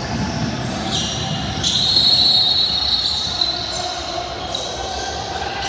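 Live basketball play in a gym: a ball bouncing on the court and sneakers squeaking on the hardwood, with a high squeak starting about a second and a half in and lasting about a second, over the steady hum of the hall.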